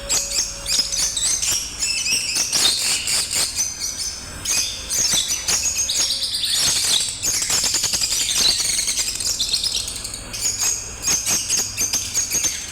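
A pair of lovebirds chattering with a dense stream of rapid high-pitched chirps, easing briefly near the end.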